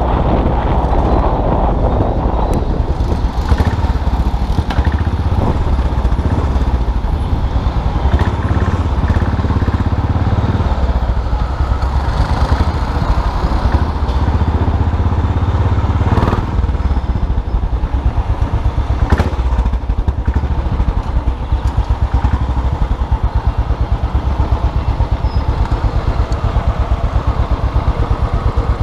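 Custom motorcycle engine running on the move, a steady low exhaust pulse, with a couple of sharp clicks in the second half.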